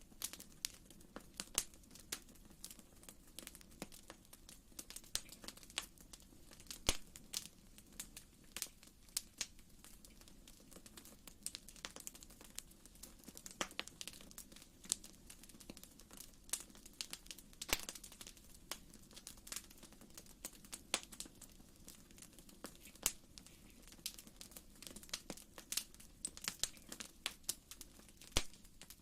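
Wood fire crackling in a fireplace: irregular sharp snaps and pops, several a second, over a soft low rumble of the flames.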